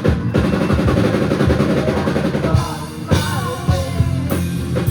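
Live rock band playing an instrumental break between vocal lines, with a busy drum fill of rapid hits in the first half and guitars ringing on from about two and a half seconds in.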